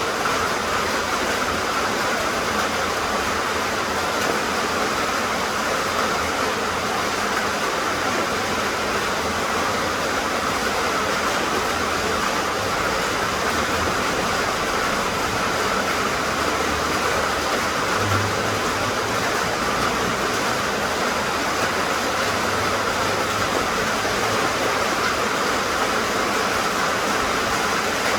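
Steady rain falling, an even, continuous hiss without breaks or distinct drops.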